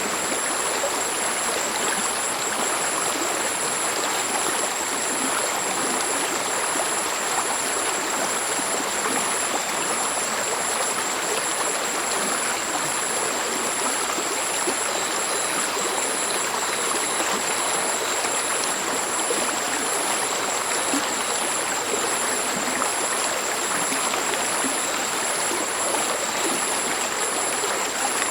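Mountain stream flowing with a steady, soft murmur. A high, fast-pulsing trill sits above it.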